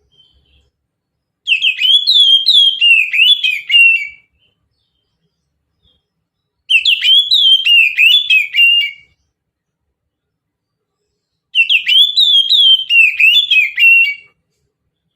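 Oriental magpie-robin (kacer) singing the mountain-type song, three near-identical phrases of quick rising and falling whistled notes, each about two and a half seconds long, with short silences between them.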